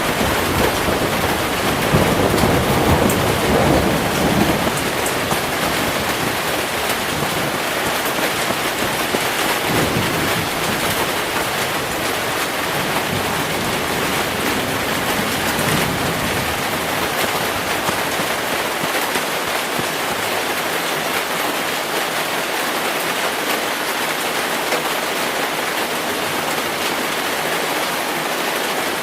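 Steady heavy rain with low rolls of thunder, the loudest rumble a couple of seconds in and weaker ones later; in the second half the thunder dies away and only the rain is left.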